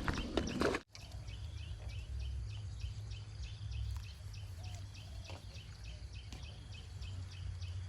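Outdoor ambience: a small animal calling in a quick, even series of high chirps, about three a second, over a steady low hum. A short break about a second in, after which the chirping runs on.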